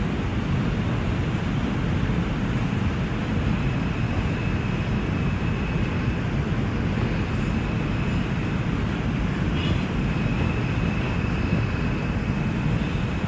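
NYC Subway R142 train running at speed between stations: a steady rumble of wheels on the rails, with a faint high steady whine over it.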